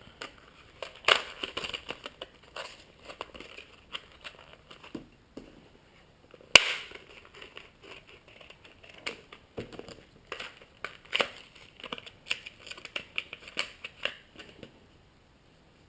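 Hard plastic packaging crackling and clicking as it is handled and pried at, with one sharp snap about six and a half seconds in.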